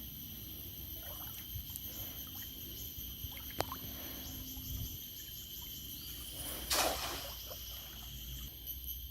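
Steady high-pitched insect chorus over a low rumble of water. There is a single sharp click about three and a half seconds in, and a short splash of water near seven seconds.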